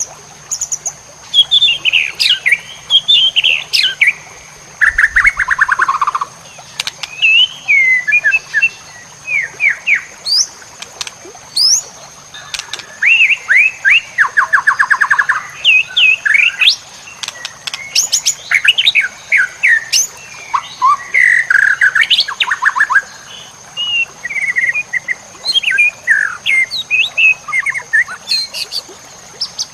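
White-rumped shama singing a loud, varied song of whistled phrases and quick sweeping notes, with fast rattling trills, one falling about five seconds in and another run about halfway through. A steady high-pitched tone sits underneath.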